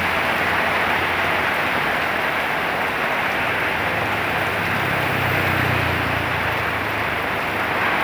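Heavy rain and strong wind making a steady, even rushing noise, with a low vehicle engine hum swelling in about halfway through and fading near the end.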